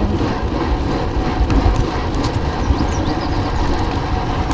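Steady wind and road noise from a bicycle riding along, buffeting the microphone, with most of the weight in a low rumble.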